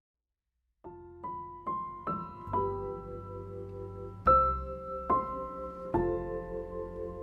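Piano background music starting after a moment of silence: a few single notes climbing in pitch, then slow, held chords.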